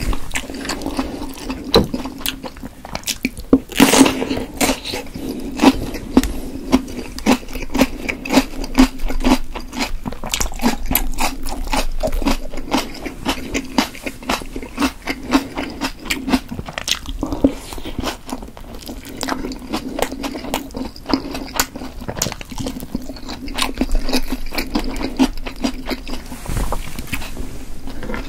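Close-miked chewing of chewy steamed potato dumplings: a dense, continuous run of wet, sticky mouth clicks and smacks.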